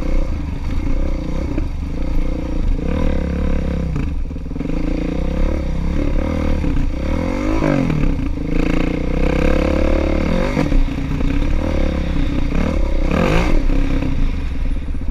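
Motorcycle engine running under riding, its revs rising and falling over and over as it accelerates and backs off.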